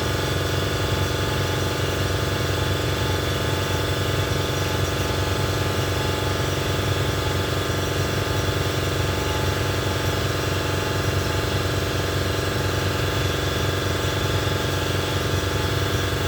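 Air compressor motor running steadily, a constant mechanical hum with a fast low throb.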